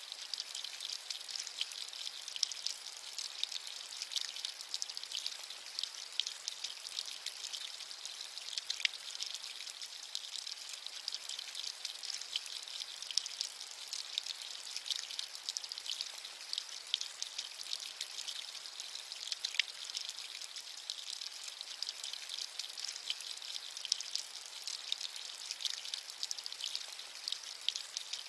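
Steady rain, a dense patter of fine raindrops making an even, high hiss with little low rumble.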